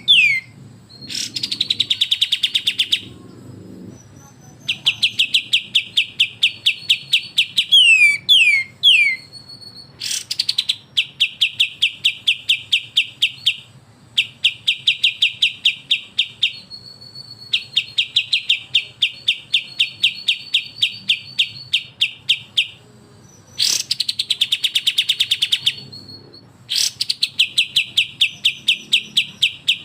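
Kapas tembak and cucak jenggot songbirds in 'besetan' song: repeated bouts of very rapid, evenly pulsed chattering notes, each bout lasting two to three seconds. Now and then a quick run of descending whistled notes breaks in, near the start, at about eight seconds, and around the twenty-four to twenty-seven second mark.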